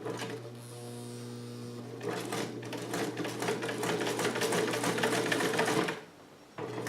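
Vintage Sovereign sewing machine running on its 1-amp electric motor: a steady motor hum at first, then rapid stitching from about two seconds in that grows louder and stops about six seconds in, sewing through leather.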